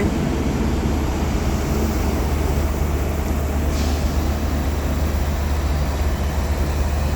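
Two coupled Class 158 diesel multiple units running through the station without stopping: a steady low diesel rumble, with a short hiss about four seconds in.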